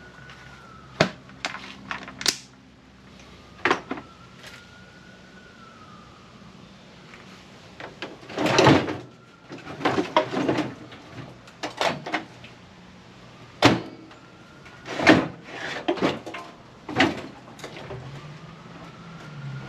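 Irregular clicks, clinks and knocks of small metal tools and screwdriver bits being handled and tried in a screw head, with a longer rattle about nine seconds in.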